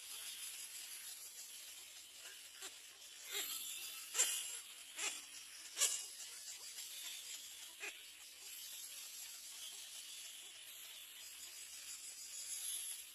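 About six short, sharp taps or clicks, irregularly spaced under a second apart, over a steady high hiss; the loudest two come about four and six seconds in.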